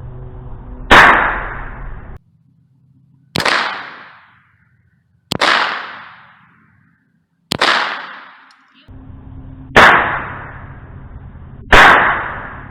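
Six single .22 LR shots from an AR-15 pistol fitted with a .22 rimfire conversion kit, about two seconds apart, each a sharp crack with a short fading tail.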